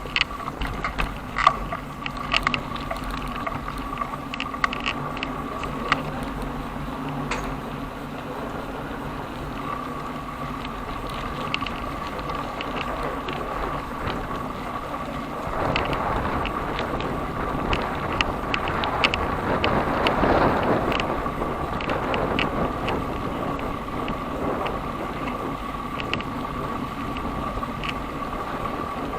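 Riding a bicycle along city streets: steady rolling noise with scattered small clicks and rattles. A louder rushing swell builds in the middle and then fades.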